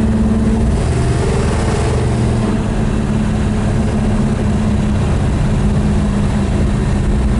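A Dodge 426 Max Wedge V8 running steadily as the car is driven along. Its engine note shifts slightly about a second in.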